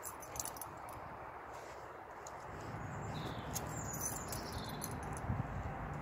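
A dog moving about excitedly: collar tags jingling and paws tapping and thudding on the floor, with a couple of faint high squeaks around the middle.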